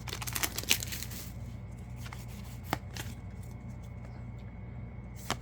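Yu-Gi-Oh booster pack and cards handled: a dense paper-and-foil crinkling rustle for about the first second, then quieter handling with a few soft clicks as the cards are flipped through.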